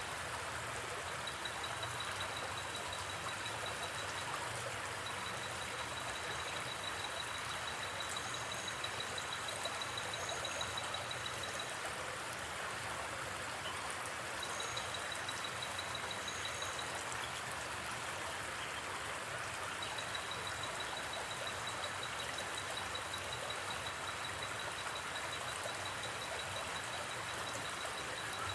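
A river flowing steadily, as an even rush of water. Over it, a high, rapidly pulsing trill comes and goes in long stretches, with a few faint higher chirps.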